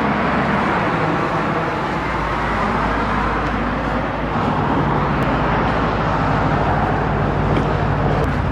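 A car driving: steady road and engine noise with a low hum.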